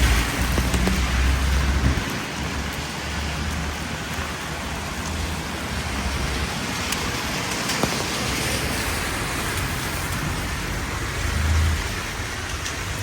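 Steady rain falling, an even hiss, with a low rumble during the first two seconds and again briefly near the end.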